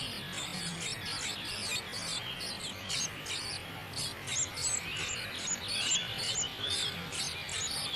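Small birds chirping in quick, dense runs of short high calls, over a steady insect buzz.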